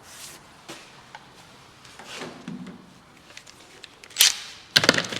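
Workshop handling noises during a tyre change: scattered light knocks and clunks, then a loud noisy burst about four seconds in and rapid clattering near the end.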